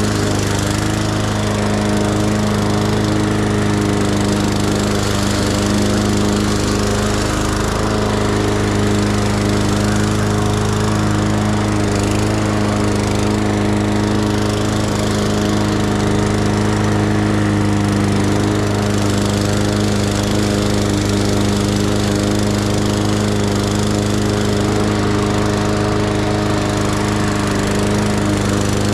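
Petrol lawn mower engine running at a steady speed while cutting grass.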